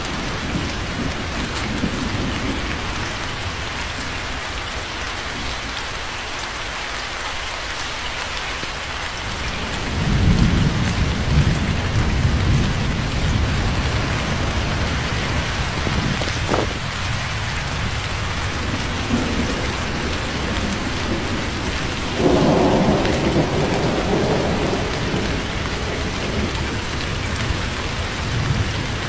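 Steady rain falling, with thunder: a low rumble of thunder rolls in about a third of the way through, and a second, stronger peal comes later.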